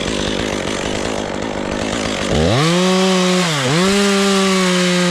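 Two-stroke chainsaw idling, then throttled up to full revs about two seconds in, dipping once briefly and running high again as it cuts off a small limb.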